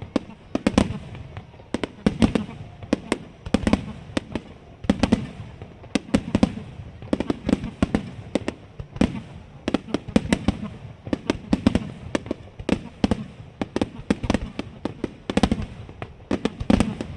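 Barrage of aerial firework shells bursting in quick succession, with sharp bangs several times a second over low rumbling swells that recur about every second and a half.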